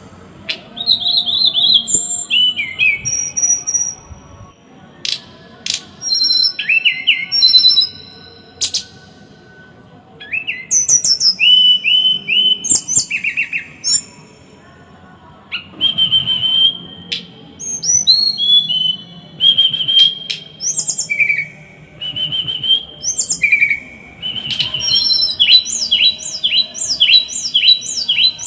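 Small songbird singing in short bursts of rapid, harsh chirps and trills, separated by brief pauses. This is masteran birdsong of the 'tembakan rapat dan kasar' kind: tight, harsh rapid-fire phrases. Near the end comes a fast run of repeated falling notes, about three a second.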